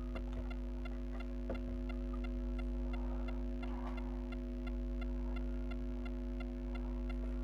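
Steady electrical mains hum with several fixed tones, with a single faint click about a second and a half in.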